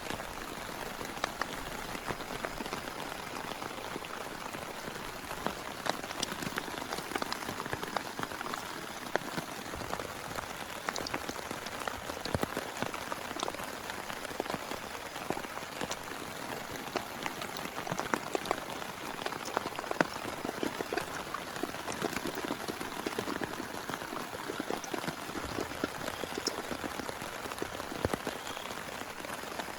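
Steady heavy rain: an even hiss dotted with many sharp ticks of individual drops striking nearby.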